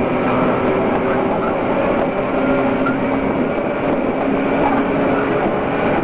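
JR East 113 series electric train running, steady wheel-on-rail rumble with a few held whining tones over it. Dubbed from cassette tape, with the top end cut off.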